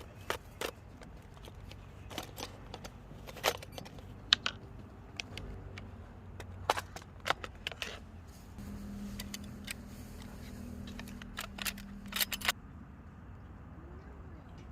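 Scattered light clicks and taps of small objects being handled, with a steady low hum between about nine and twelve seconds in.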